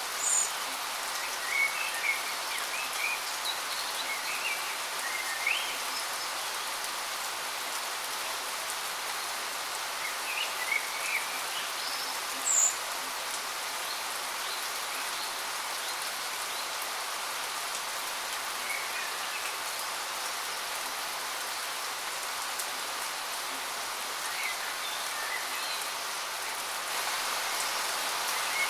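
Steady hiss of water pouring down a waterfall, with short bird chirps and calls scattered over it.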